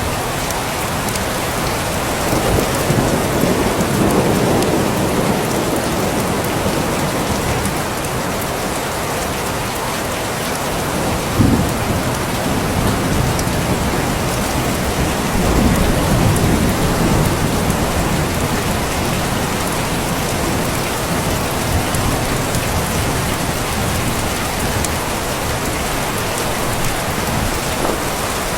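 Steady heavy rain falling, with low rolls of thunder swelling and fading twice and a short, louder clap about eleven seconds in.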